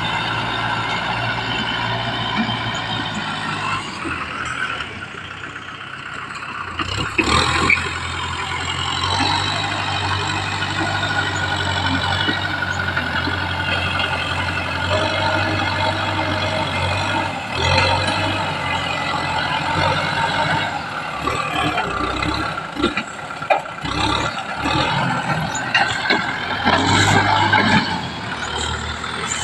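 Kubota M6040 tractor's diesel engine running while working, its engine note dropping about four seconds in and picking up again a few seconds later. Several loud clatters come from the machine along the way.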